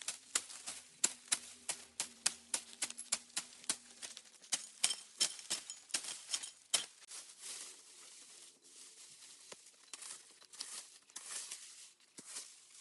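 A fast run of sharp clicks or taps, about three a second, that gives way after about seven seconds to a rustling, scraping haze with only a few scattered clicks.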